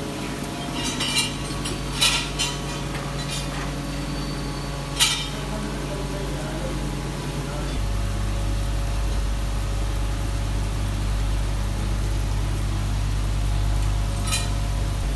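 Workshop machinery running with a steady hum that steps up in level and pitch about eight seconds in, with a few sharp metallic clinks of metal parts in the first five seconds and once near the end.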